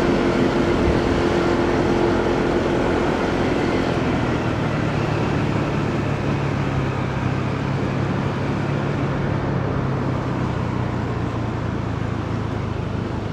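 Motorcycle engine running under way, with road and traffic noise of city riding. About four seconds in the engine note drops to a lower, steady hum.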